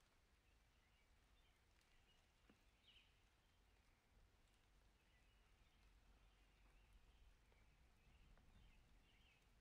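Near silence, with faint high bird chirps now and then over a low, steady rumble; the clearest chirp comes about three seconds in.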